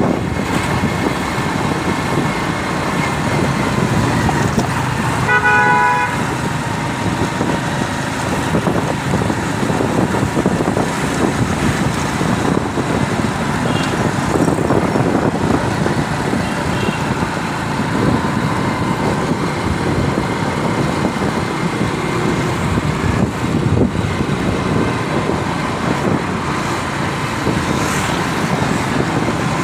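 Continuous road traffic noise, with a vehicle horn honking once briefly about five seconds in and fainter short honks later on.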